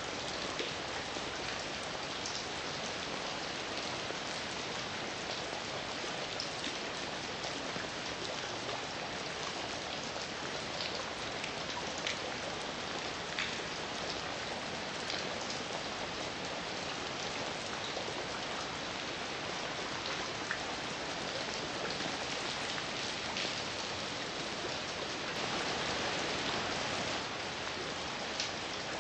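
Heavy rain falling steadily, with single drops ticking sharply now and then. It swells a little louder for a second or two near the end.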